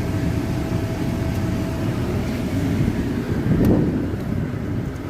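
Steady low rumble of a vehicle running, with a faint steady hum in the first couple of seconds and a brief swell near the end.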